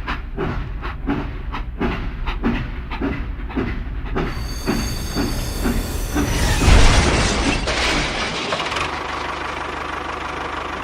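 Small motor of a miniature model construction machine running, with a regular clacking at about three strokes a second. About four seconds in this gives way to a steady whirring hiss, which grows fuller and louder a couple of seconds later.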